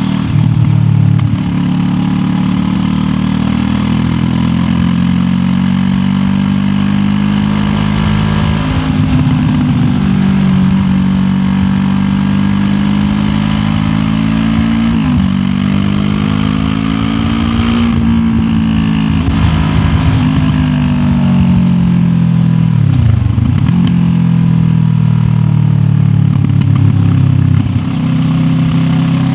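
QJ Motor SRT 700X motorcycle's parallel-twin engine running under way, recorded from the rider's backpack. Its pitch climbs and falls repeatedly as the throttle opens and closes, with short dips a few times that fit gear changes.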